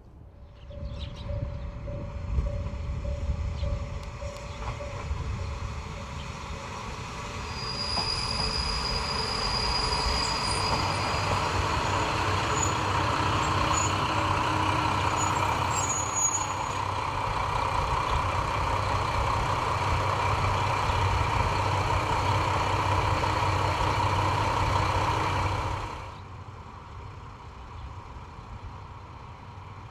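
Kanto Railway Jōsō Line diesel railcar running past, a steady engine and wheel rumble that swells about eight seconds in, with a thin high squeal for a few seconds. The sound cuts off abruptly near the end, leaving a quieter steady rumble.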